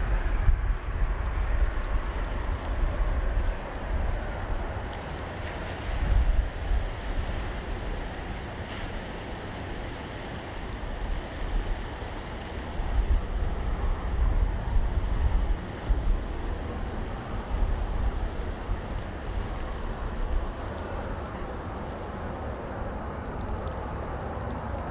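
Wind buffeting the microphone in uneven gusts, over a steady distant rumble.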